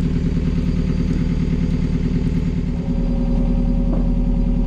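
Hire cruiser's inboard diesel engine running steadily at low speed; about three seconds in its note changes as the throttle is altered.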